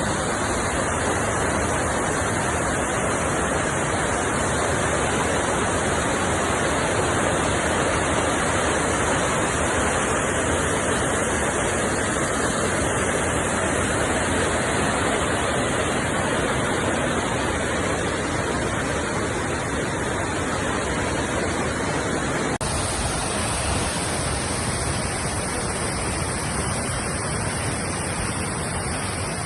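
Waterfall: a loud, steady rush of falling water. About 23 seconds in the sound changes abruptly, thinner in the low end.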